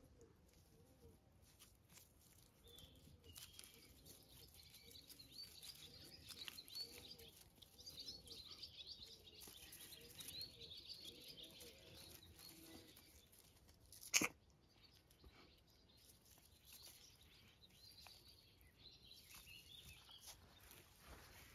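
Faint outdoor birdsong, many small birds chirping and twittering, with one sharp click a little past the middle.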